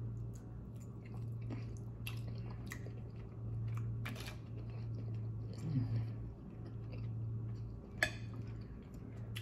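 A person chewing food with soft wet clicks and smacks, over a steady low hum. A sharp click sounds about eight seconds in.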